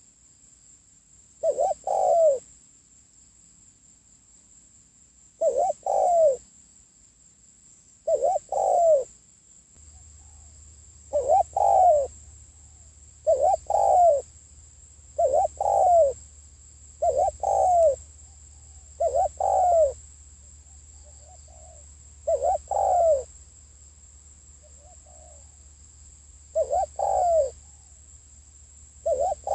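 Spotted dove cooing: short throaty coo phrases, each with a couple of notes, repeated about every two seconds with a few longer pauses. A faint steady high whine runs underneath, and a low hum comes in about a third of the way through.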